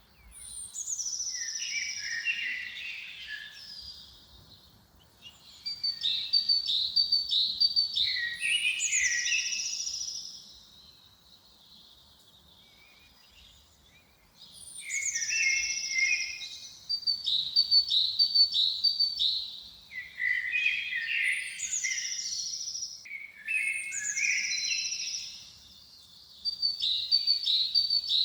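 A songbird singing repeated, elaborate phrases of high whistles and rapid trills, each a few seconds long, with short pauses between them and a longer gap about halfway through.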